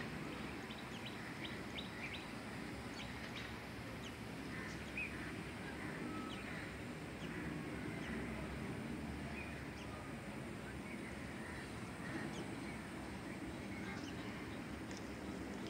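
Birds chirping and calling in short, scattered notes over a steady low outdoor rumble.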